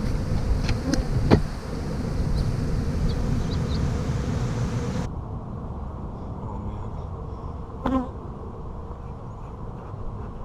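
A honey bee colony buzzing as its hive is cut out: a dense, steady hum, with a few light clicks in the first seconds. About five seconds in, the sound turns abruptly duller as its high end drops away.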